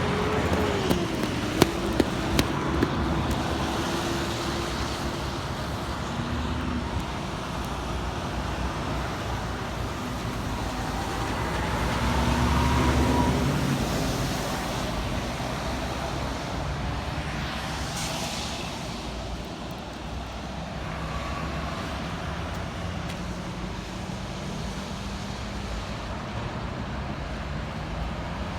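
Road traffic: vehicles passing with a steady rush of noise, one growing louder and fading about twelve to fourteen seconds in. A few sharp clicks in the first few seconds.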